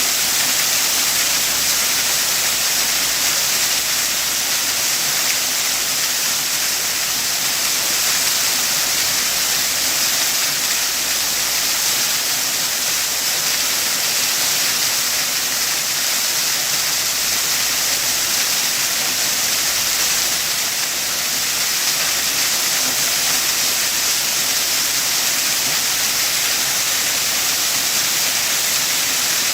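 Waterfall: water pouring in a steady, even rush with no breaks.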